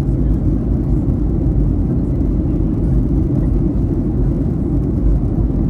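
Steady low rumble of a Boeing 737-800's CFM56-7B engines and airflow, heard from inside the passenger cabin.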